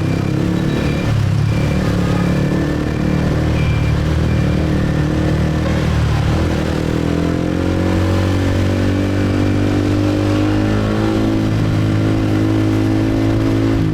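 Motorbike engine running under way through city traffic, its pitch rising from about six and a half seconds in as it speeds up, then holding steady.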